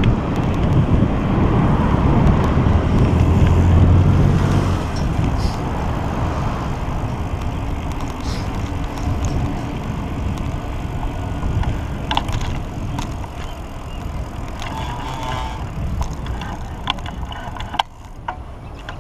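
Road noise heard from a moving pedal bike: a motor vehicle's low engine rumble passes close by in the first few seconds, then steady road and wind noise with a few sharp clicks and rattles from the bike.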